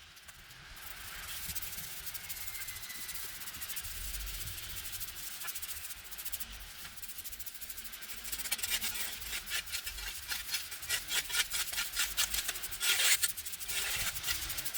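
Abrasive rubbing on a hard surface, a steady scratchy hiss at first, turning into fast repeated strokes from about eight seconds in and getting louder toward the end.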